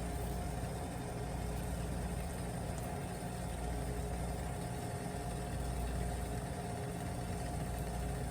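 A steady low mechanical hum, even and unbroken, with a faint high whine running through it.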